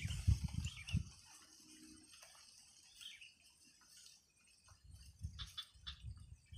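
Quiet outdoor background with sparse, faint bird chirps. There are low bumps on the microphone in the first second and again near the end, along with a few light ticks.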